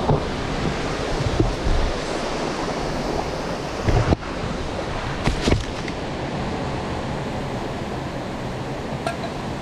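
Steady rushing of a waterfall's falling water, with some wind on the microphone. Two short low bumps come about four and five and a half seconds in.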